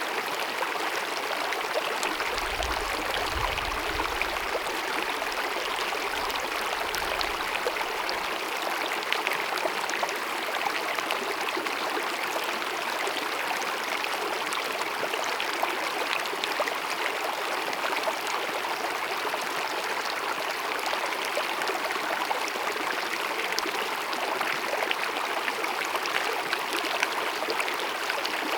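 Small glacier-fed mountain meadow stream babbling and cascading over rocks in a steady, unbroken rush of water. A low rumble sits under it for a few seconds near the start.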